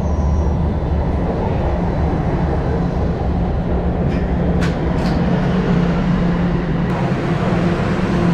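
Subway train running: a steady low rumble with a constant low hum, heard from inside the car.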